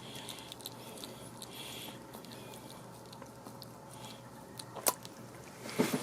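Wet kissing and licking smacks between a person and a dog: soft scattered mouth clicks, a sharp smack about five seconds in, and a louder wet smack near the end.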